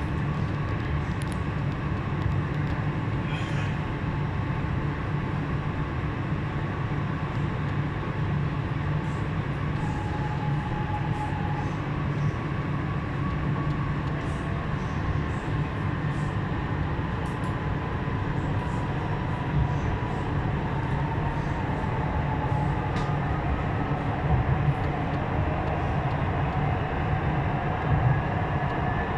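Nanjing Metro Line S9 train running, a steady low rumble. A faint electric whine slowly falls in pitch, and another whine rises near the end.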